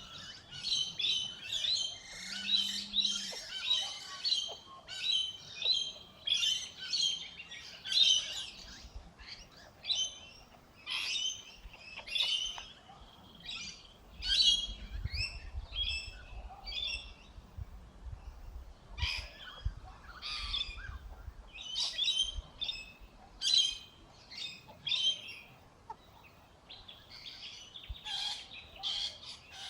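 Birds chirping over and over in short, high, rapid calls, with brief pauses between bursts.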